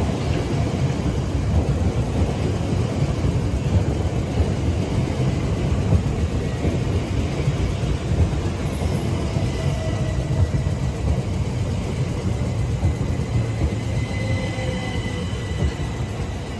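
Southern Class 377 Electrostar electric multiple unit running past at close range: a steady rumble of wheels on rail, with a faint high whine now and then. The sound eases near the end as the last carriage goes by.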